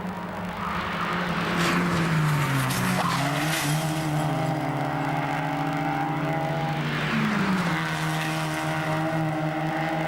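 Mazda MX-5 race cars' four-cylinder engines running hard. The engine pitch drops about two seconds in and again near seven seconds, as for braking and downshifting, then climbs as they accelerate. A hiss of tyre noise comes with the first drop.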